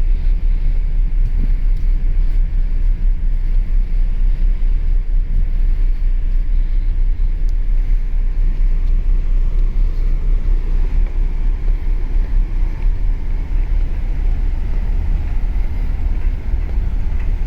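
Steady low rumble aboard a moving car ferry, a fluttering, unbroken roar with no distinct events.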